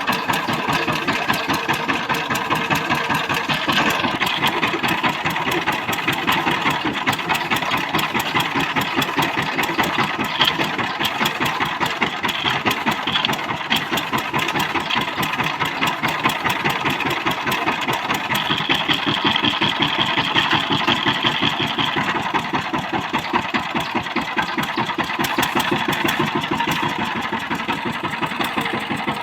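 Single-cylinder diesel engine of a walk-behind power tiller running steadily, with a rapid, even chugging.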